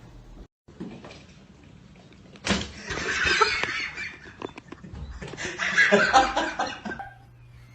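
People laughing in two bouts, the second with higher, more pitched laughs.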